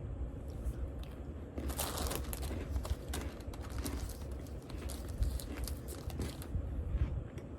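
Plastic cookie packaging crinkling and rustling, with small irregular clicks, as Oreo cookies are taken out of the tray.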